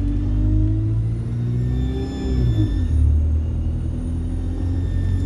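Alexander Dennis Enviro 200 bus engine pulling, with a high turbocharger whine that rises, falls away and rises again. The engine note dips and recovers about two and a half seconds in.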